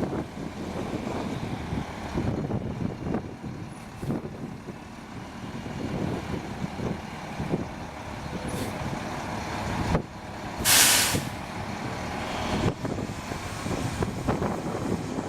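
2000 International 2554 plow truck's diesel engine running steadily, with one short, loud hiss of air from the air brakes about ten and a half seconds in.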